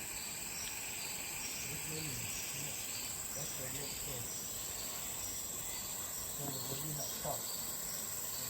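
Steady high-pitched drone of rainforest insects, with faint distant voices underneath.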